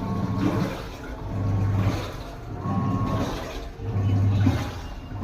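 IFB top-load washing machine in its wash cycle: the drive motor hums in pulses about every one and a third seconds, with water churning and sloshing as the pulsator turns back and forth.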